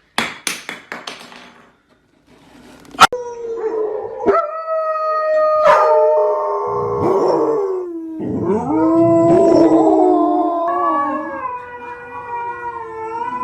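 Dogs howling, more than one voice at a time, in long wavering howls that overlap at different pitches, starting about three seconds in after a sharp click. A few short clicks come before.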